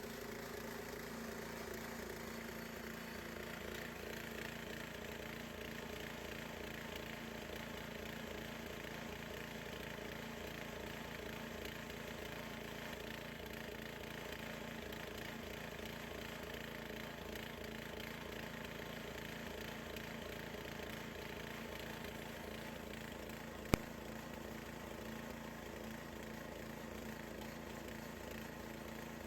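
Gasoline-engine band sawmill running steadily while sawing through a large cedar log, with one sharp click near the end.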